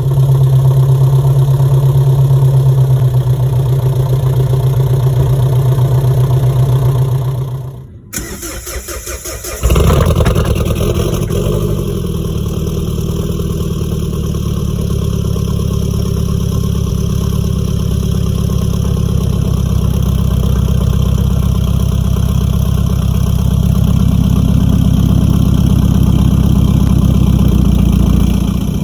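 Jeep Liberty CRD's 2.8-litre four-cylinder turbo diesel running through a straight-piped side-dump exhaust. It idles steadily, dies away about seven seconds in, cranks with rapid pulsing for about two seconds, then catches and settles back into a loud steady idle.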